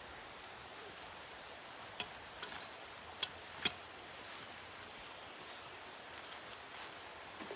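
Quiet outdoor background hiss with three sharp clicks or snaps, the first about two seconds in and two more close together about a second later.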